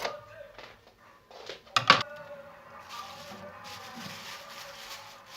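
Sharp knocks or clatters, a small one about one and a half seconds in and two louder ones close together just before two seconds, over a faint steady background.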